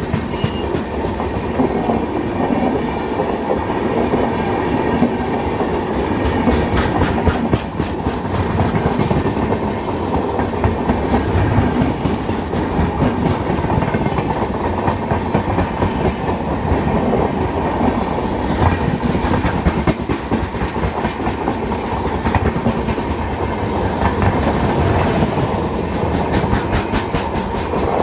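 LHB passenger coaches of an Indian Railways express rolling past close by: a loud, steady rumble of wheels on rail with repeated clickety-clack clicks as the wheels cross rail joints.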